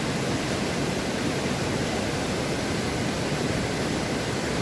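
Steady, even rush of a waterfall and its mountain stream.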